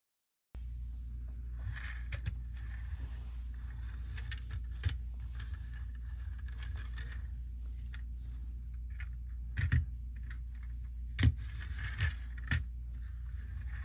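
Lego plastic pieces being handled, with light rattling and scraping and a handful of sharp clicks, over a steady low hum.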